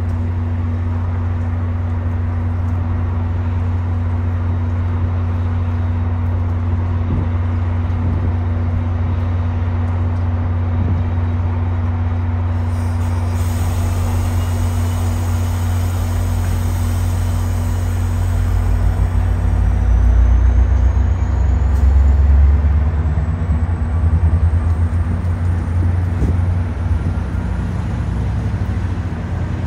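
Train running with a steady low hum. From about halfway a rising whine comes in and the rumble grows louder, as the train gets moving.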